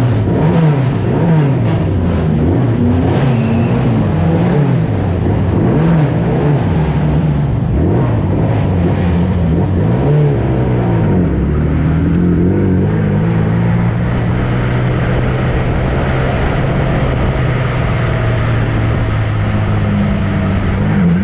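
Huffaker Genie Mk13 1960s sports-prototype race car engine revving up and down through repeated rises and drops in pitch, as with throttle blips and gear changes. From about halfway it settles into a steadier, low note.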